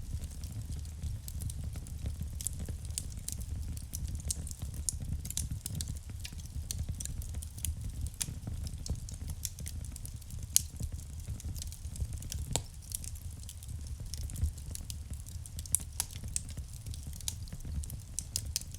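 Wood fire burning in a fireplace: irregular crackles and small sharp pops from the burning logs over a steady low rumble of the flames, with a few louder pops around the middle.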